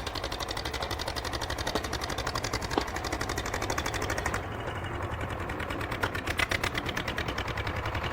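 Diesel engine of a heavy forestry machine running, with a fast, even clatter of about ten pulses a second over a steady low hum.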